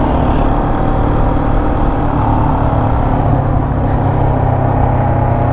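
Motorcycle engine running steadily while riding at low speed, with a low, even hum and a steady rush of road and wind noise.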